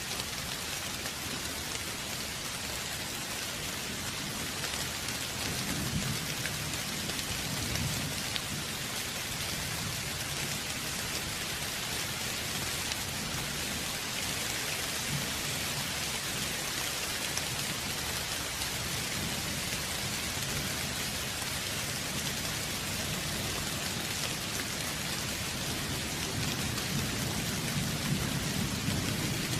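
Steady heavy rain, with low rolling thunder swelling a few seconds in and again near the end.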